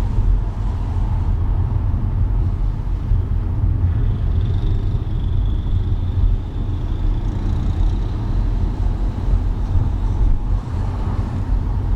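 Car driving in city traffic: a steady low rumble of engine and road noise, with a faint high whine from about four seconds in until about ten seconds in.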